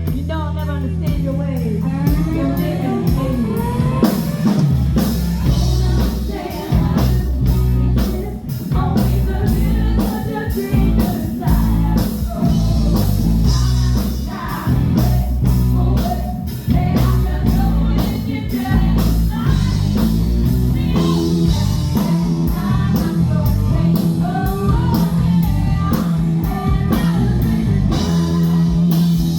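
Live rock band playing, with electric guitar, bass and drum kit behind a lead singer.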